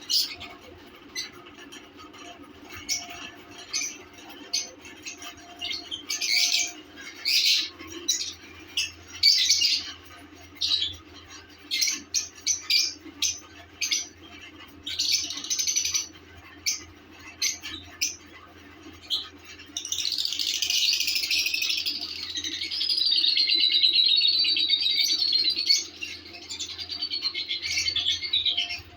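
Lovebirds calling in short, sharp chirps, then breaking into a continuous warbling chatter that wavers in pitch for about eight seconds near the end.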